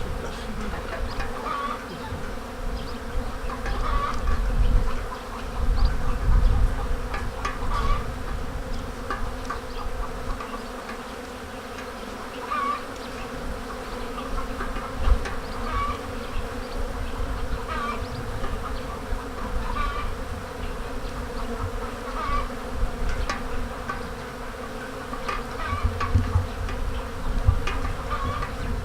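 Mass of honeybees buzzing in a dense, steady drone during the colony's spring cleansing flight, as heavy as flight during a main nectar flow.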